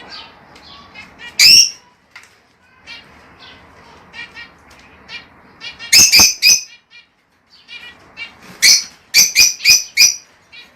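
Lovebirds chattering: a steady patter of short chirps under loud, shrill calls, one about a second and a half in, a quick burst of three near the middle, and a rapid run of about six near the end.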